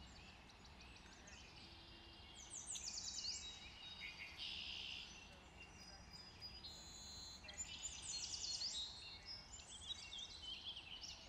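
Birds chirping and singing: rapid, repeated high chirps and trills in bursts, over faint low background noise.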